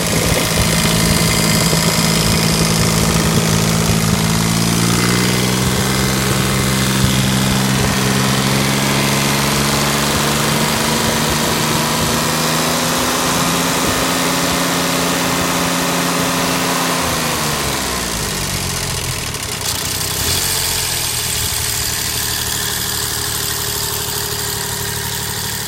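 Kubota D600 three-cylinder liquid-cooled diesel of a Kubota G5200 garden tractor running. It speeds up about five seconds in, holds the higher speed, then slows back down to a lower idle after about seventeen seconds.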